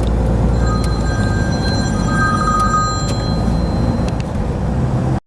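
Steady low road rumble inside a moving car, with a thin electronic tone sounding for about three seconds from about a second in and warbling briefly near its middle. The sound cuts out abruptly just before the end.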